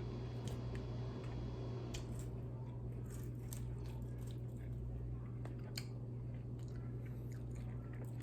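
Close-miked chewing of crispy re-fried chicken, with scattered sharp crunches and clicks from about two seconds in, over a steady low hum.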